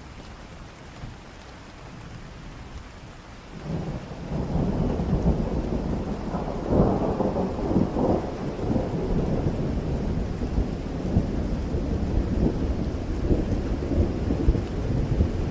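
Steady rain, then about four seconds in a long roll of thunder rises and rumbles on, loudest a few seconds later.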